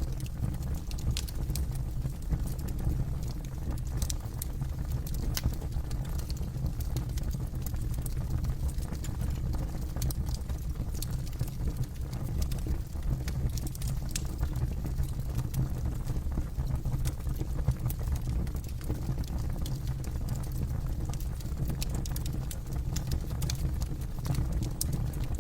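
Wood fire burning: a steady low rumble of flames with frequent, irregular sharp crackles and pops from the burning wood.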